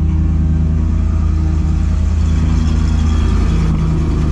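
Ford F700 truck's 370 V8 petrol engine running steadily at a set fast idle, with the PTO engaged to drive the hydraulic pump. The engine note rises slightly near the end.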